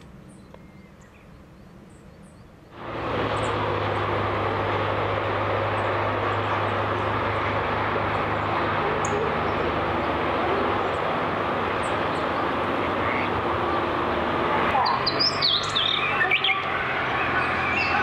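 Faint high bird chirps, then a loud steady background noise with a low hum that cuts in suddenly about three seconds in. From about fifteen seconds, a small songbird sings quick phrases of high, twittering notes over the noise.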